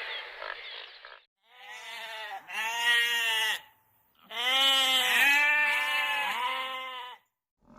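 An animal bleating in two bouts of quick, wavering calls with a short pause between them, after a different, noisier sound fades out in the first second.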